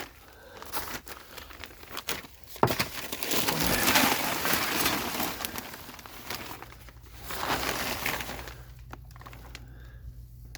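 Plastic vapor-barrier sheeting crinkling and rustling as it is crawled over and handled, loudest in a few bursts. A steady low hum comes in about halfway through.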